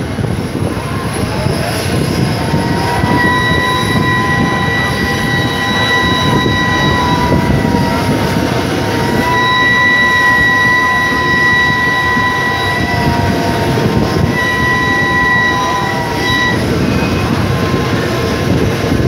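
Two trains running side by side at speed: a steady rumble of wheels on rails from the steam-hauled passenger coaches and the SRT Red Line electric train alongside. A high, steady ringing tone comes and goes three times, from about three seconds in until about sixteen seconds in.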